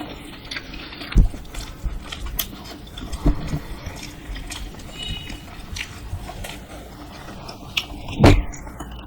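Close-miked eating of dosa: biting and chewing with scattered small clicks. Three louder low thumps come about a second in, just past three seconds, and near the end.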